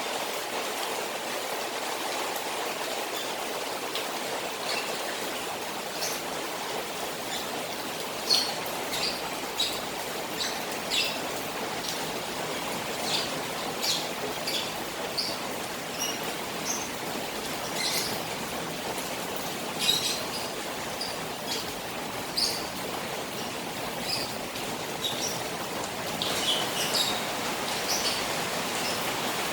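Rain falling steadily on a koi pond, with a steady rush of running water. From about eight seconds in, short sharp high ticks are scattered over it.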